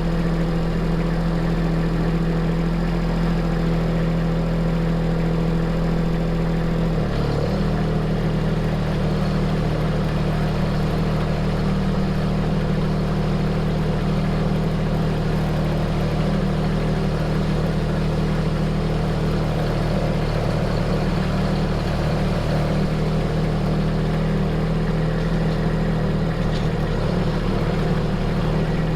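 Engine of the equipment working the gravel drive running steadily. About seven seconds in its pitch steps up slightly and it grows rougher, as if revved or put under load.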